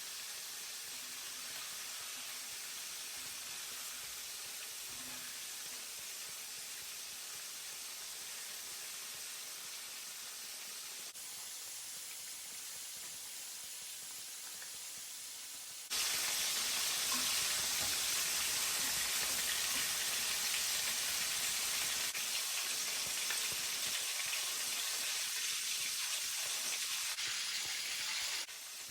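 Hot cooking oil sizzling: a steady hiss that jumps abruptly to a much louder sizzle about halfway in, as flour-coated chicken strips fry in the oil.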